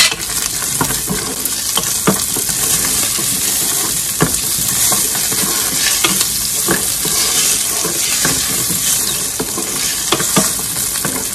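Cashews, green chillies, ginger and garlic sizzling steadily in hot oil in a frying pan, stirred with a wooden spatula that knocks and scrapes against the pan every second or two.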